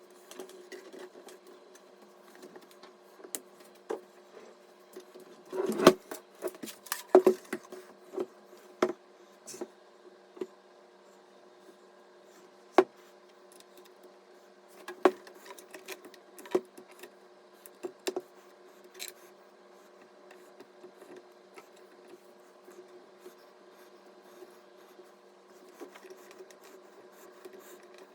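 Scattered sharp clicks and taps of computer parts being handled and fitted, busiest for a few seconds near the start and then single clicks every few seconds, over a faint steady hum.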